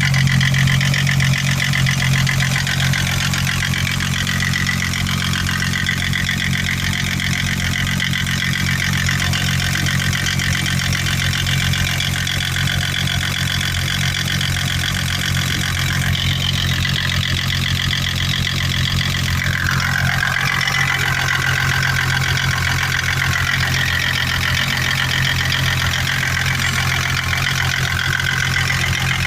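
M20 engine running steadily with a rapid, regular knock: the knock in the engine that it is being recorded for.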